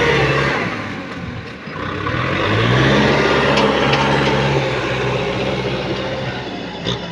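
Kubota M6040 tractor's diesel engine running. It drops about a second in, revs back up about two and a half seconds in, then grows gradually fainter. A short sharp click comes near the end.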